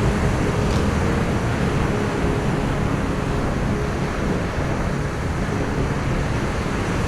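Steady rushing wind noise with a deep rumble underneath and no pitched tone in it.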